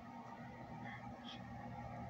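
Quiet background: a faint steady low hum, with a couple of faint ticks about a second in.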